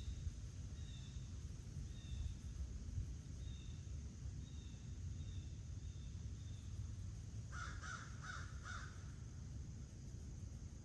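Four harsh caws from a corvid in quick succession, about three-quarters of the way in, after a run of short, high chirps from a small bird. A steady low rumble sits underneath throughout.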